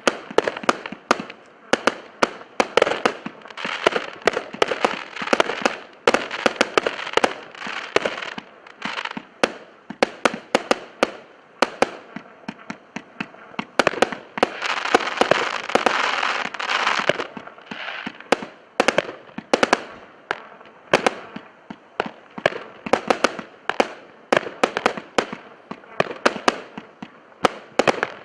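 A 64-shot firework cake firing in rapid succession, a steady string of sharp launch thumps and aerial bursts, two or three a second, with a denser spell of crackle about halfway through.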